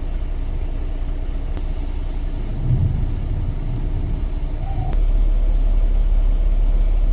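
Semi truck idling, a steady low rumble. About five seconds in, the deep hum steps up and gets louder and stays there.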